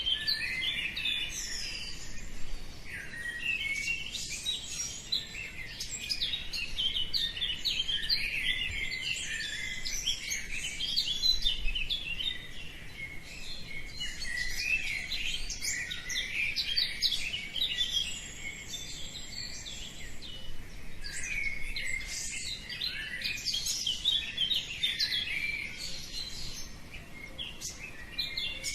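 Many small birds chirping and twittering at once, a dense, continuous chorus of short high calls overlapping one another.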